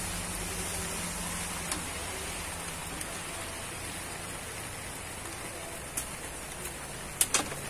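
Light rain falling steadily on broad banana leaves, a soft even patter with scattered single drops tapping. Two sharper taps come close together near the end.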